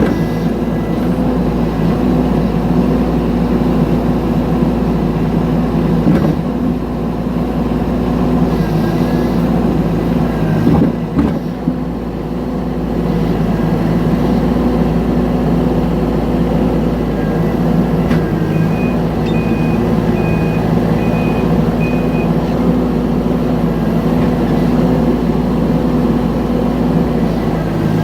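Mini excavator engine running steadily under work, with a few clunks about six and eleven seconds in. About two-thirds of the way through comes a string of five short, high beeps.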